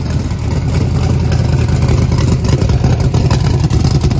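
Steve Morris 540-cubic-inch twin-turbo big-block V8 running steadily and smoothly on methanol on its first start-up, exhausting through short open downpipes. It is loud, with a fast even pulse.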